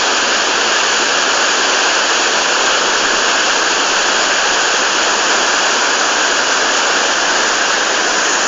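Pistyll Rhaeadr waterfall in full flow after heavy rain, a loud, steady rush of falling and raging water. It is close to the phone's microphone.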